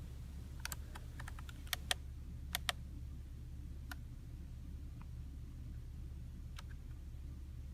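Scattered light clicks, irregular and bunched closely in the first few seconds, then sparser, over a steady low hum.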